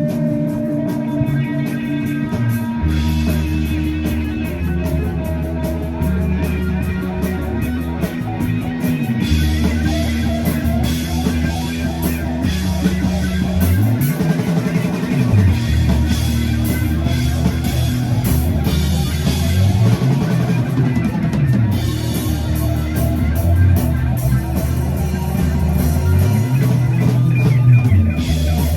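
Instrumental rock music: electric guitar and bass over a drum kit, with the bass sliding between notes.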